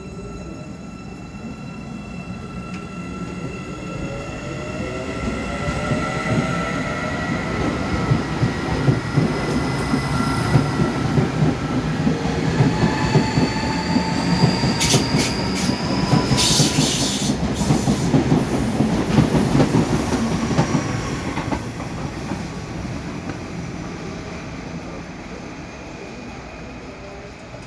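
A train passes, wheels squealing in thin high tones over a rumble of wheels on track. It grows louder, stays loud for about ten seconds in the middle, then fades away.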